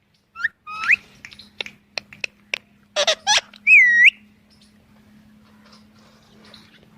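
Pet parrot clicking and calling: two short rising whistles and a series of sharp clicks, then a loud harsh squawk and a clear whistle that dips and rises again about four seconds in. After that it goes quieter, leaving a faint steady hum.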